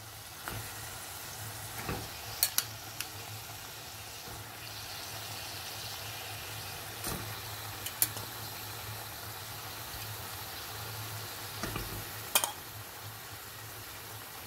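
Oil and tomatoes sizzling steadily in a karahi as fried chicken pieces are added, with a scatter of short knocks and clicks as pieces and the utensil touch the pan.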